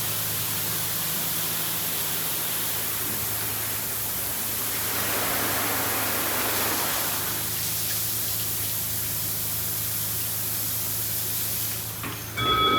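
D&S IQ 2.0 touch-free car wash running: a steady rushing hiss of high-pressure spray or blowers over a low electrical hum, swelling briefly midway. Near the end the rushing drops away and steady tones begin.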